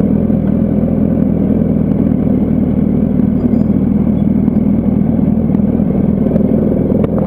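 Motorcycle engine running at a steady speed while riding, with a rush of road and wind noise over it.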